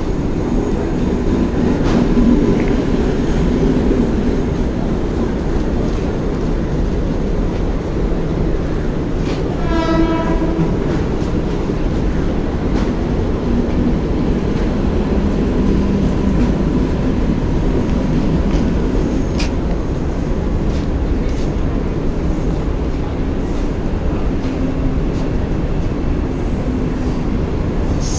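Air-conditioned electric local train running past on a far track with a steady rumble and wheel clatter. A single horn blast lasting about a second sounds about ten seconds in.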